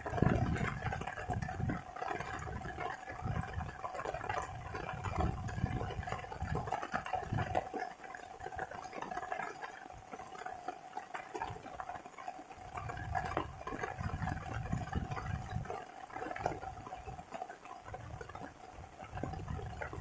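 Rain and water outdoors, with a steady hum throughout, scattered small ticks, and uneven low rumbles that come and go.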